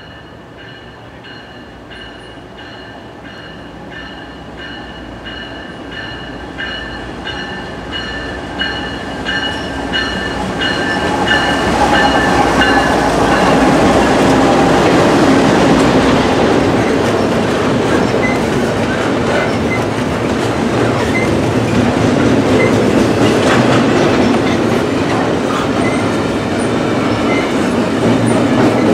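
A train approaching and passing close by, growing louder over about twelve seconds into a steady rumble with wheels clattering over the rails. A bell rings in even strokes through the approach.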